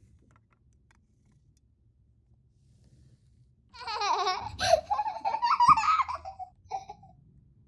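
Near quiet for about three and a half seconds, then a high-pitched voice giggling for about three seconds, its pitch wavering up and down, with a couple of small clicks mixed in.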